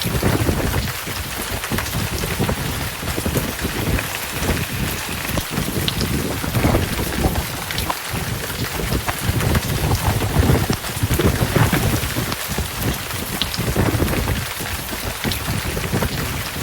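Heavy rain pouring steadily, with thunder rumbling low and unevenly underneath.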